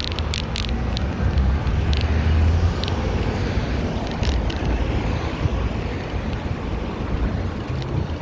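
Street ambience recorded from a moving bicycle: a steady low rumble of car traffic and road noise, with scattered sharp clicks and rattles, most of them in the first second.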